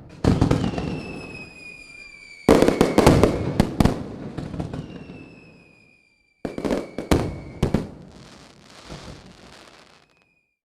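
Fireworks: loud bangs in three clusters, each dying away, with thin whistling tones that slowly fall in pitch and a brief crackle near the end.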